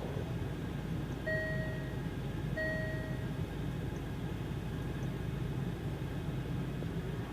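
Two short electronic beeps from the Range Rover Evoque's cabin chime, each about half a second long and spaced a little over a second apart, which is the park-assist chime following the parallel-park selection. A steady low engine hum runs underneath.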